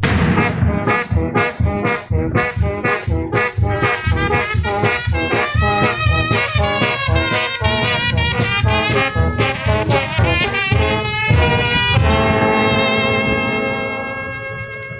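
Brass band music with a steady drum beat, ending about twelve seconds in on a long held chord that fades away.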